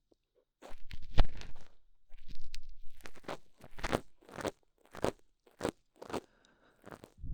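Ear pick scraping and crackling inside a microphone's ear in a series of short strokes, roughly two a second, with brief silences between them.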